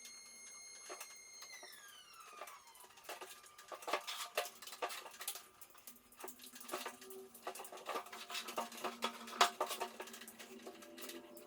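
A small cordless power tool's motor whining at a steady high pitch, then winding down as the trigger is released about a second and a half in. It is followed by a run of irregular clicks, taps and knocks from handling tools and materials.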